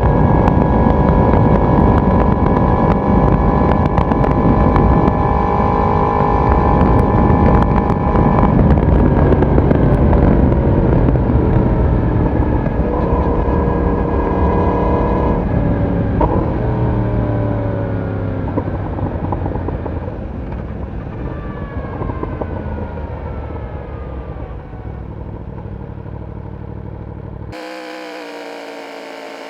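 Yamaha YZF-R1 inline-four engine and exhaust running at steady cruising revs. About a third of the way in the throttle closes, and the revs fall away in several drops as the bike slows, growing quieter toward the end.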